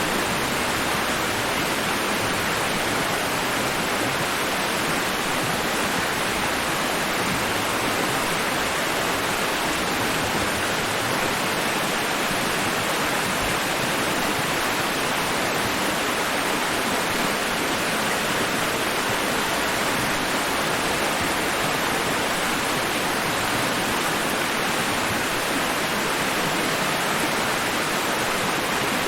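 Steady white noise: an even, unbroken hiss with no rise and fall of waves.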